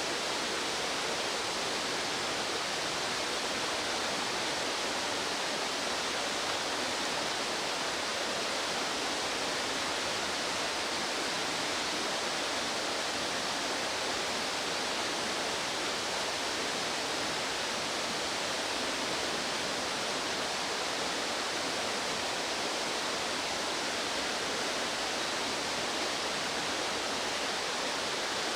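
Steady rush of stream water, an even hiss that does not change, with no bird calls standing out.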